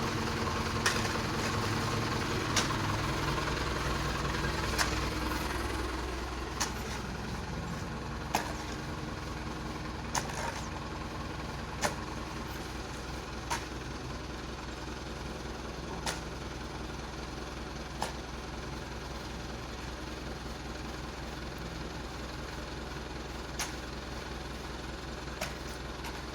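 A truck engine running steadily, then dropping to a lower idle about six seconds in. Sharp knocks repeat about every two seconds over it.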